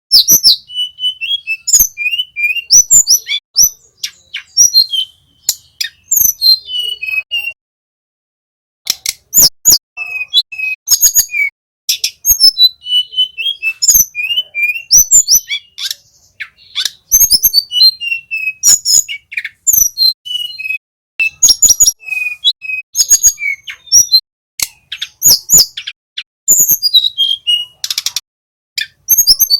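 Blue flycatcher song: fast runs of high whistled notes and trills mixed with sharp clicking notes, with a brief pause about 8 seconds in.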